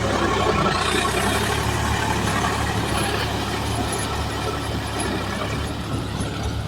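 Diesel engine of a JCB 3DX backhoe loader running steadily while it works, with a thin high whine joining about a second in.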